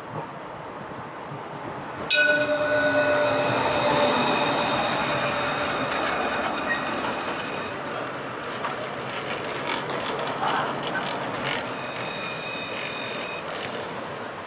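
A tram passes close by. About two seconds in, its rolling noise rises suddenly, and its wheels squeal against the rails in several steady high tones for about five seconds. A shorter squeal comes near the end.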